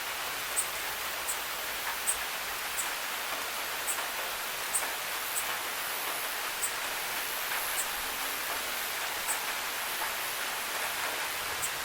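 Steady rain falling, an even hiss with short, sharp ticks of single drops landing about once a second at irregular intervals.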